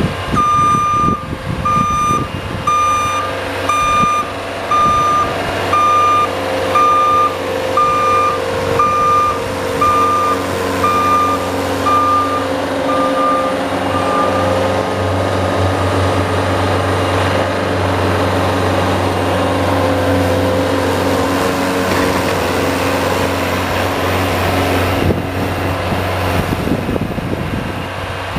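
A vehicle's reversing alarm beeping steadily, about three beeps every two seconds, fading out about halfway through, over a running engine that continues after the beeps stop.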